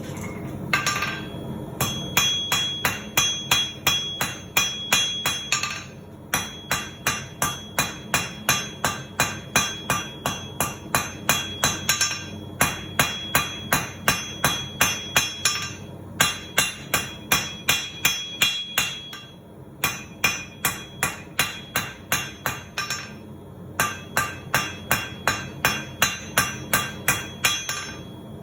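Blacksmith's hammer striking hot steel on an anvil, rounding a bar of square stock, in quick runs of about three to four blows a second with short pauses between runs. Each blow rings with a high metallic tone.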